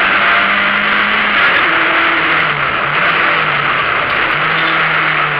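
Opel Ascona A rally car's engine driven hard, heard from inside the cabin under a loud rushing noise; its note drops about a second and a half in and climbs again near the end.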